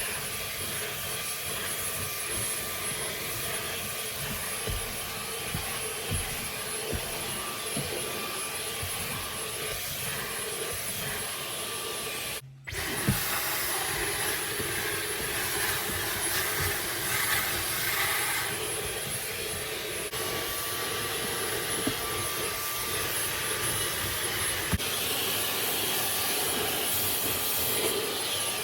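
A motor-driven machine running steadily with a whine, briefly cut off about twelve seconds in before it resumes.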